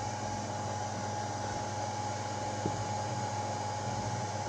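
Steady mechanical hum with an even hiss and a constant faint tone, with one soft knock about two and a half seconds in.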